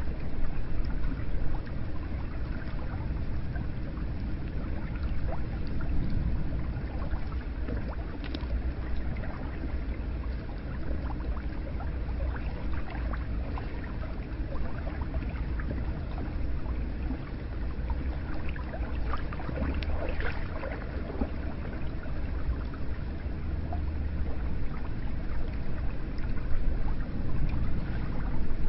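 Hot-spring water flowing steadily into a bath, with many small splashes and drips over the running water.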